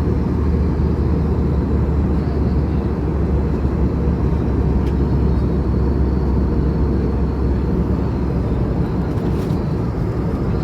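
Steady cabin noise inside an Airbus A320neo in flight: a constant deep engine and airflow roar, heaviest in the low end.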